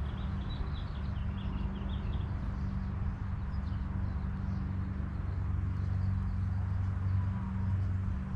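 Birds chirping in short high notes, busiest in the first couple of seconds, over a steady low hum.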